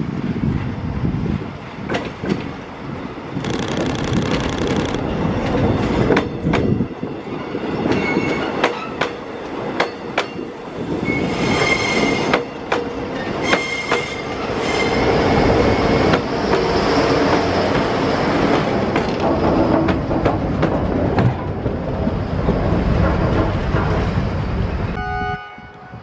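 Diesel-hauled tourist train passing close by: the engine runs and the wheels click over the rail joints, with brief high wheel squeals as the cars go past. The sound cuts off suddenly near the end.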